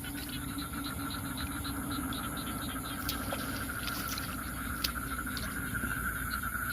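Night chorus of frogs and insects in a wet field: a steady high-pitched drone with a regular chirping at about four calls a second over it, and a low rumble underneath.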